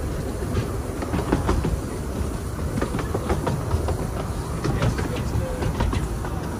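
Narrow-gauge railway carriage running along the track: a steady low rumble with frequent irregular clicks and knocks from the wheels on the rails.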